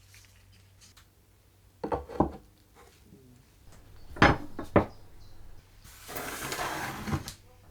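Workshop handling sounds: a few hard knocks of parts or tools set down, two of them sharp and loud about halfway through, then about a second and a half of scraping or rubbing that ends in one more knock.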